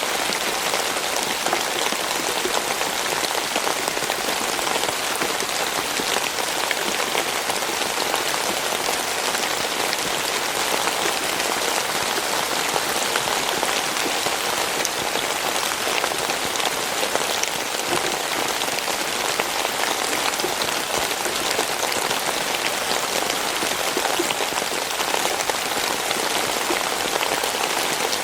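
Steady rain falling, a dense, even patter of countless drops hitting a surface.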